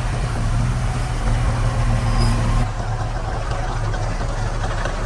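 A heavy construction machine's diesel engine running steadily. About two and a half seconds in, the sound changes abruptly as the hiss above the engine drops away.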